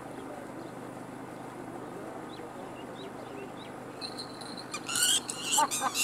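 Quiet open-field background with a few faint chirps of small birds, then from about five seconds in a run of loud, shrill, high bird calls, about three or four a second.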